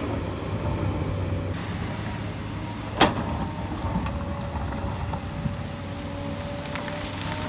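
Hyundai excavator's diesel engine running steadily under a thin, steady whine, with one sharp clank about three seconds in and a few lighter knocks.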